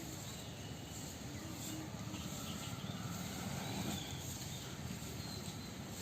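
Faint, scattered bird calls over a steady outdoor background hiss, with short chirps about four seconds in.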